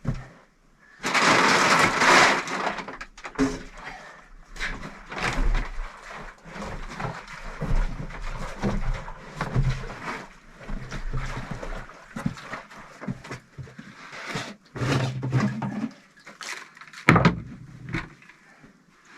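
Irregular hand-work noises: a loud scraping rustle about a second in, then scattered knocks, clicks and scrapes, with a heavier thump and a sharp knock near the end.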